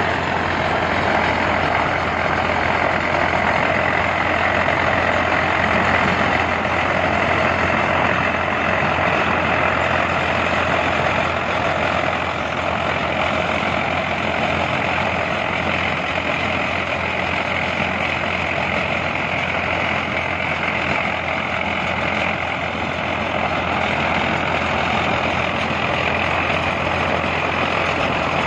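Heavy construction machinery running steadily and loudly, a continuous mechanical din with a low hum underneath.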